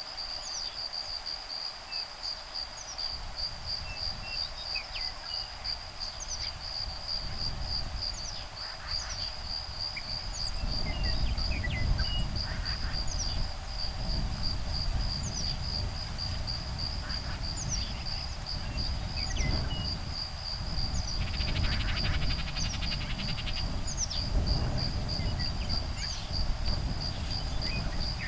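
Insects keep up a steady, fast-pulsing high trill while woodpeckers, adults and nestlings, give short high calls scattered throughout, with one rapid chattering run about three-quarters of the way through. Breeze rumbles on the microphone, growing from about a third of the way in.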